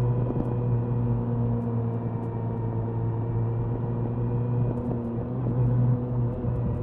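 Suzuki Hayabusa's inline-four engine and exhaust running at a steady cruising speed, a constant low drone with its pitch barely changing.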